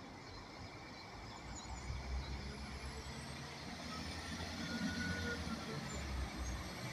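A train approaching, its low rumble growing steadily louder, with a faint high thin whine above it.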